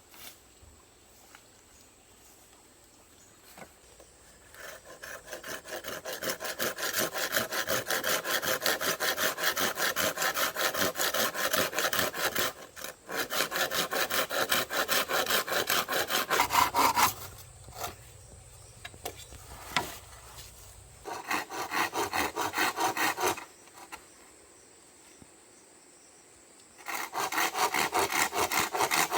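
Hand saw cutting through bamboo in quick, even back-and-forth strokes. It saws in three bouts: a long one starting a few seconds in, a short one after a pause, and another starting near the end.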